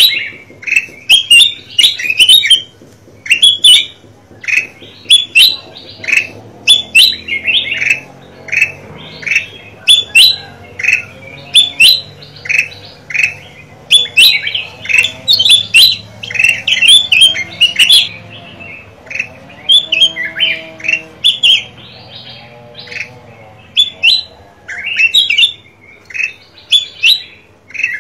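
Golden kutilang (a bulbul) calling: loud, short chirping phrases repeated rapidly, one after another.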